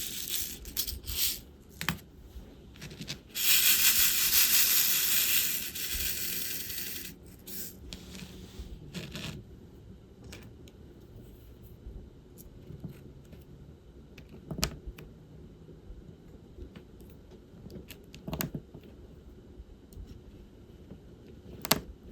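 Small resin diamond-painting drills rattling and sliding in a plastic tray for about three seconds, then scattered light clicks and taps of small plastic pieces.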